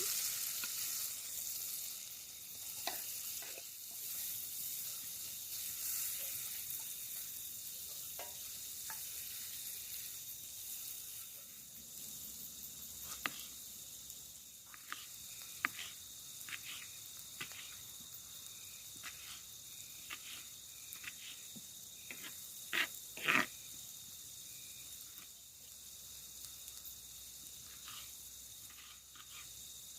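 Campfire cooking: a sizzling hiss that thins out over the first several seconds, with scattered crackles and clicks throughout and two louder snaps close together a little past two-thirds of the way in.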